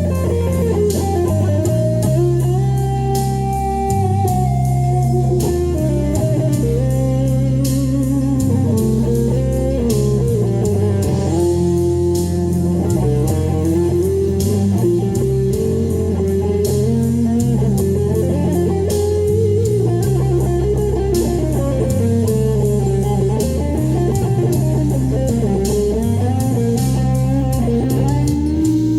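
Electric guitar playing a blues lead line with bending, sliding notes over a backing track of bass and drums.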